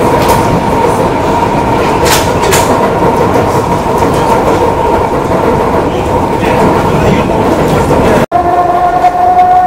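Commuter train running at speed, heard from inside the carriage: a loud, steady rumble and rattle with a constant hum and a few clicks from the track. It breaks off briefly near the end and resumes with a steadier whine.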